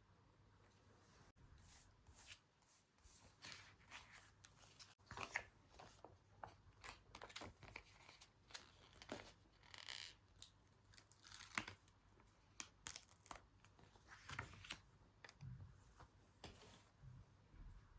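Quiet, close paper handling: an irregular run of short crinkling and soft tearing sounds from paper and sticker sheets.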